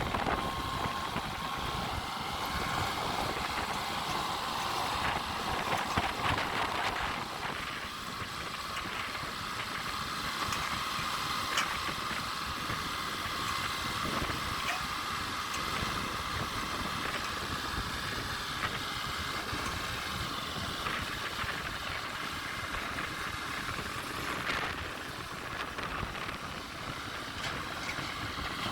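Compact tractor engine running steadily while it drives a post-hole auger digging foundation holes, with a faint steady whine over the engine noise.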